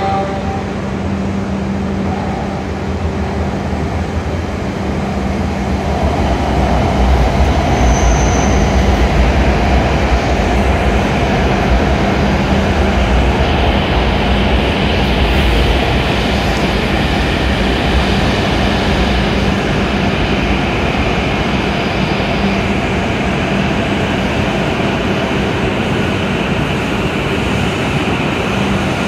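A Hokuriku Shinkansen train pulling into the platform, making a steady rumble and rush of running noise. It grows louder about six seconds in, is loudest for a few seconds after that, then carries on a little quieter as the train rolls slowly alongside.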